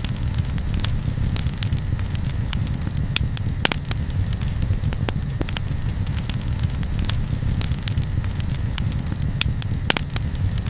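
Campfire crackling, with frequent sharp pops and snaps over a steady low rumble. Faint short high chirps repeat every second or so.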